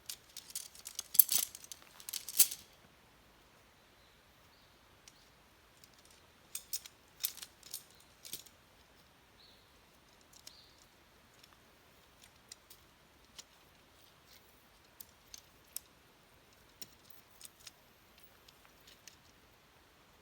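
A short cluster of clinking and rattling about a second in, then sparse sharp crackles and pops at irregular intervals, as from a wood campfire.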